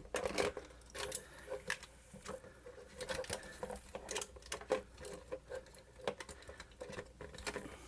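Small irregular clicks and taps of a camcorder's plastic and metal parts being handled and worked on by hand.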